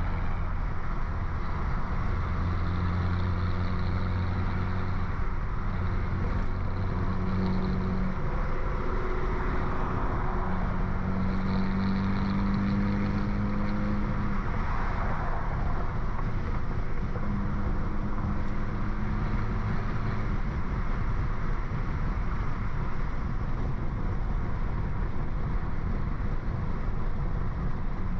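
BMW F30 328i's stage 2-tuned turbocharged four-cylinder, with downpipe and straight-piped exhaust, running steadily while cruising under constant road noise. Its exhaust tone comes and goes with the throttle and drops away into road noise for the last several seconds.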